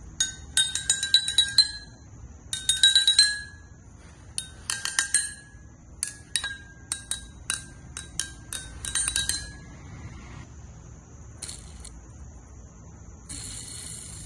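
Glass clinking and being tapped, in quick clusters of sharp taps that each ring briefly at the same few high pitches. The taps thin out to single strikes after about six seconds, with one last tap near the end and a steady high hiss behind them.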